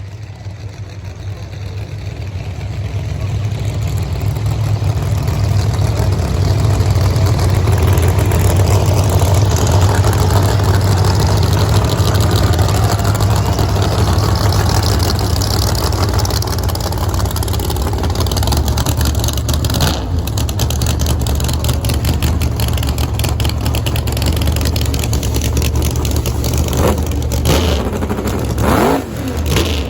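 Drag race car engines running loud, swelling over the first several seconds and then holding steady. Near the end come a few quick revs that rise and fall.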